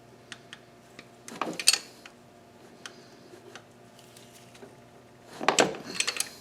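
Metal parts and hand tools clinking and clattering during hands-on engine work: scattered light ticks, with two short bursts of clatter, about a second and a half in and again near the end.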